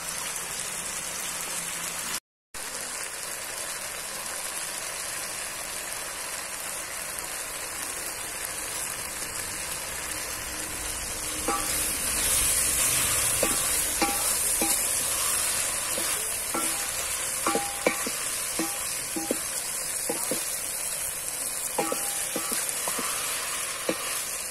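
Okra, onion, tomato and green chillies sizzling in ghee in a steel pot, a steady hiss. From about halfway, a wooden spoon stirs them with short knocks and scrapes against the pot, and the sizzle grows louder.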